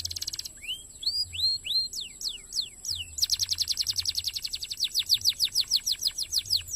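Domestic canary singing: a brief fast trill, then a run of separate rising and falling whistled notes, then a long rapid trill about three seconds in that slows into distinct downward-sweeping notes near the end.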